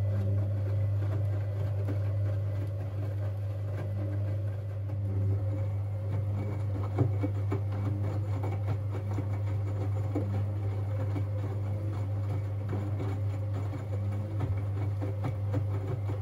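Siemens Siwamat 6143 front-loading washing machine running through a boil wash: a steady low motor hum with a fainter tone above it, and a few light knocks, the sharpest about seven seconds in.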